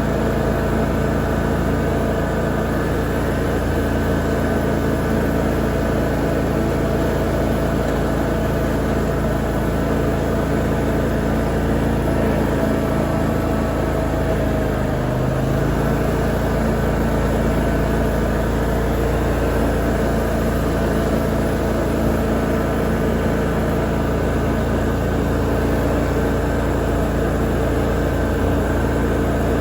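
Lawn mower engine running steadily under the mower-mounted camera, with a brief dip in pitch about halfway through.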